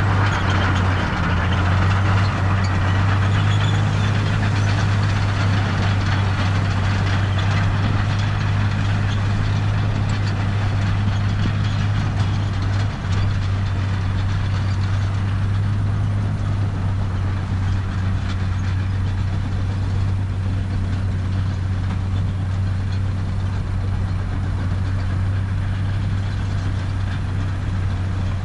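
Heavy diesel engine of earthmoving machinery running steadily at a constant speed, with a rough noise over it that lessens about halfway through.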